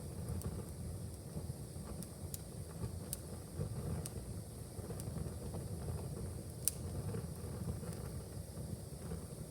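Wood fire in a fireplace crackling: scattered sharp pops and snaps over a steady low rumble of the flames, with one louder pop about seven seconds in.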